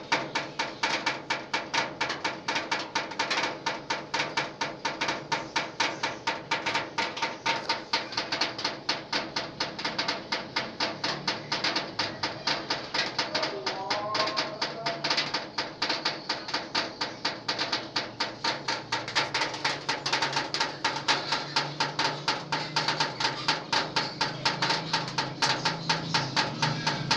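Rainwater dripping from a roof leak onto a zinc sheet: a fast, even tapping of drops, very rhythmic, like a drum band.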